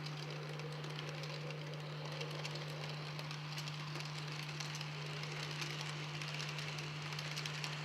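Model train running on the layout: a steady electric motor hum with fast light clicking from the wheels on the track.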